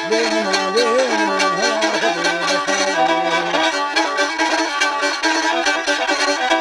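Kamancheh, a bowed spike fiddle, playing an ornamented melody with sliding, wavering pitches over a steady rhythmic accompaniment.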